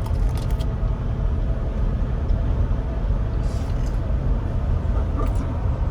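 Steady low rumble of a moving vehicle, with a few brief clicks near the start and short hisses later.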